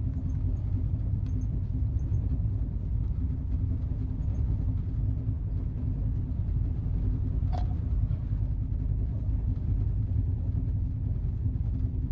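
Steady low rumble of the Duronto Express running, heard from inside an AC two-tier coach, with one faint click partway through.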